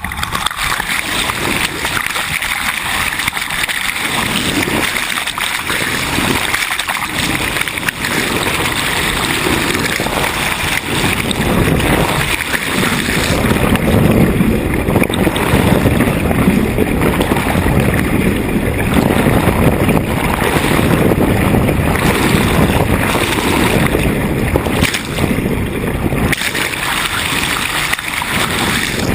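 Steady rush of water washing along a sailboat's hull under way, mixed with wind buffeting the microphone.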